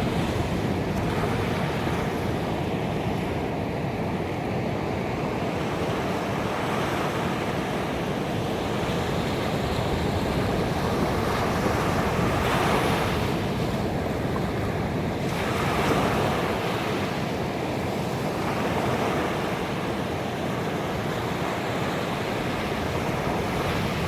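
Ocean waves washing onto a beach: a continuous surf noise with swells as waves break, the biggest about halfway through.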